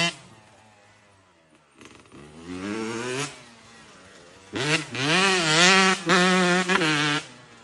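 Motocross dirt bike engine revving: a fainter rising rev about two seconds in, then a louder run of revving from about four and a half seconds in that drops away near the end.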